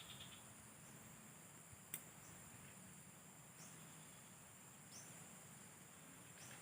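Faint outdoor insect drone, a steady high-pitched hum of crickets. There is a single sharp click about two seconds in, and a few faint short high chirps spread through the rest.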